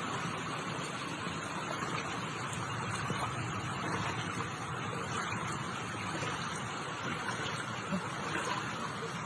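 Steady rushing noise of heavy rain and flowing floodwater.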